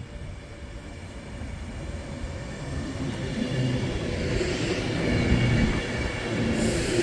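Class 390 Pendolino electric multiple unit pulling into the station, its rumble growing steadily louder as it draws near.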